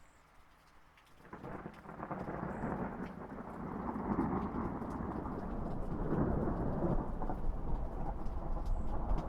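Steady light rain with scattered drops, then about a second in a long rumble of thunder rises and keeps rolling, growing louder toward the end.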